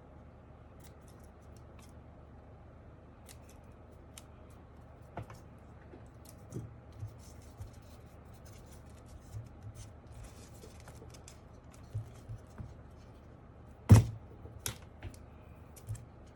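Scattered small clicks, taps and snips from hands working on a mechanical keyboard's parts, with one loud knock about fourteen seconds in.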